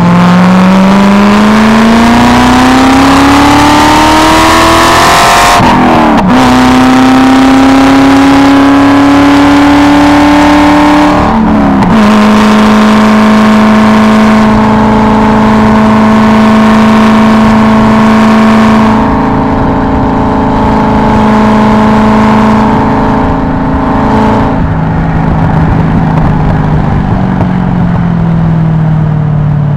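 Car engine under hard acceleration heard from inside the cabin: its pitch climbs steadily, breaks and drops at an upshift about six seconds in, climbs again to a second upshift around twelve seconds, then holds steady at high speed with wind and road hiss. Near the end the note drops off and falls in pitch as the car slows.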